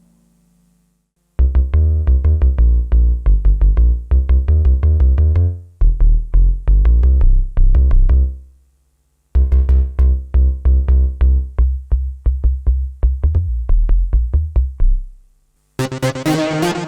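IK Multimedia Uno Synth PRO analog synthesizer playing a factory preset: a fast, repeating pattern of short staccato bass notes, heavy in the low end, in three phrases with brief gaps. It starts after about a second and a half of silence. Near the end a brighter, harsher preset begins.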